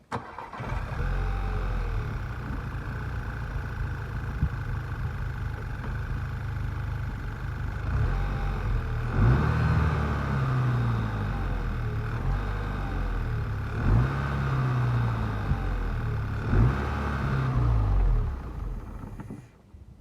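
Volkswagen Scirocco 2.0 TSI turbocharged four-cylinder petrol engine starting and idling steadily. It is then revved in several short blips that rise and fall, before it is switched off near the end.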